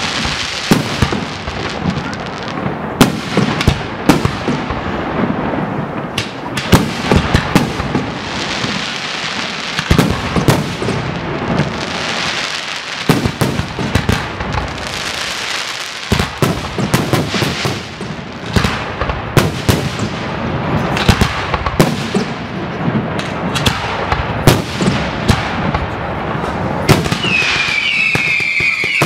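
Aerial fireworks finale: shell bursts bang one after another in quick succession over a continuous dense noise of overlapping explosions. Near the end, several high whistles falling in pitch join in.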